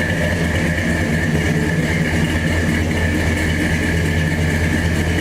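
1970 GMC pickup's engine idling steadily through its newly fitted exhaust pipes and mufflers.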